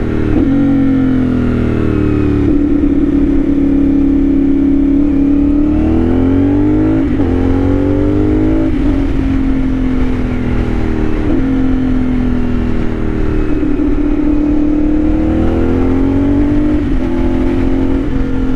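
CFMOTO 450SS parallel-twin engine running through a new slip-on exhaust, its pitch rising and falling slowly several times as the revs change.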